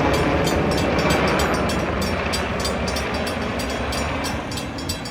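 Long Island Rail Road train passing at speed, its wheels rattling with a rapid run of clicks over the rail joints, the sound gradually easing as it moves off.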